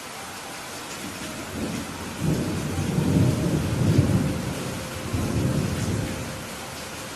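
Steady rain hissing, with a roll of thunder: a deep rumble builds about a second and a half in, swells loudest in the middle, and dies away before the end.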